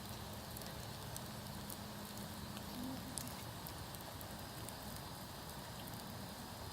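Wood campfire burning and crackling, with scattered sharp pops from the burning wood.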